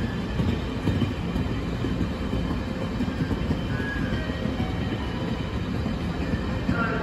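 Red-and-cream passenger coaches of a Taiwan Railway train rolling past at low speed: a steady rumble of wheels on track with small irregular clicks over rail joints.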